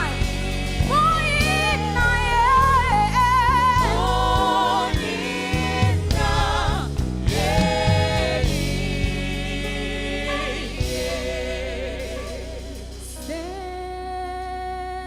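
Gospel choir singing with band accompaniment, the full sound thinning out and growing softer about ten seconds in.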